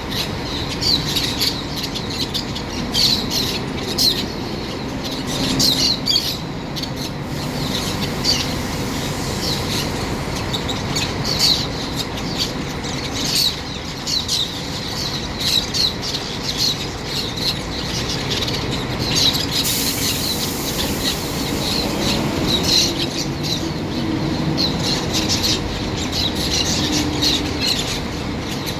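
Birds squawking, with many short harsh calls repeated throughout, over the steady rumble of city traffic. There is a brief hiss about twenty seconds in.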